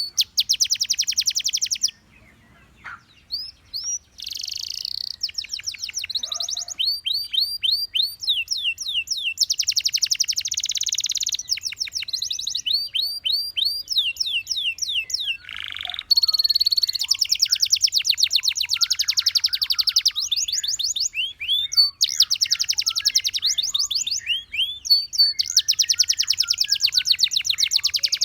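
Gloster canary singing: fast trills of rapidly repeated notes alternating with runs of repeated downward-sweeping whistles, with a brief lull about two to four seconds in.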